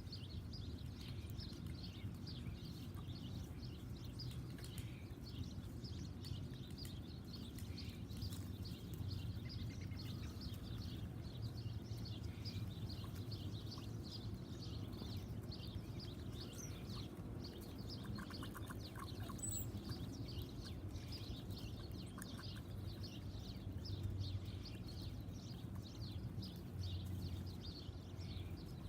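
Small backyard birds chirping continuously, many short high chirps in quick succession, over a low steady hum.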